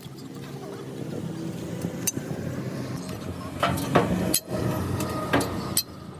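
An engine running steadily, with several sharp metallic knocks and clinks over it.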